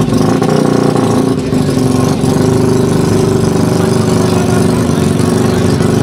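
Small motorcycle engines running steadily at low revs, held barely above idle as the bikes creep along in a slow race.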